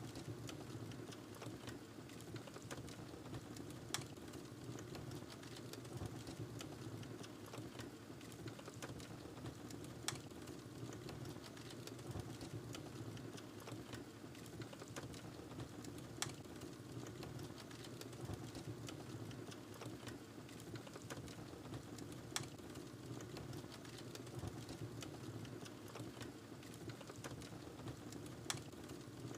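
Wood fire burning in a fireplace: a steady low rumble of flame under constant small crackles, with a sharper pop about every six seconds.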